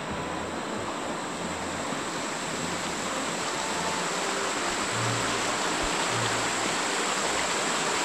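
Steady rainforest ambience: an even rushing hiss that slowly grows louder, with a thin, high, steady whine over it.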